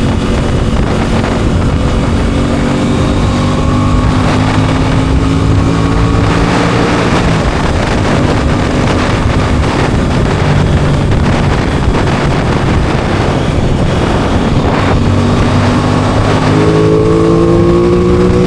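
Aprilia Tuono 660 parallel-twin engine running under load, its pitch rising as it revs, dropping back about seven seconds in, then climbing steeply again near the end.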